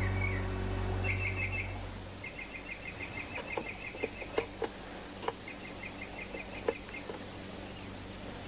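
Background music fades out over the first two seconds. Bird chirping follows in short rapid trills, repeated several times, with a few light clicks and taps scattered through.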